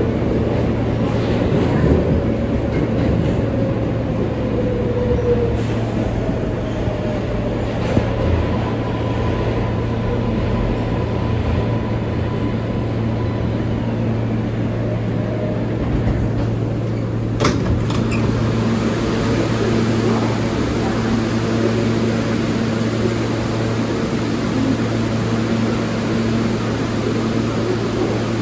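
R143 subway car running: a steady loud rumble with a low hum and a motor whine that slides down in pitch in the first few seconds, then holds a steady higher tone. A single sharp clank about 17 seconds in.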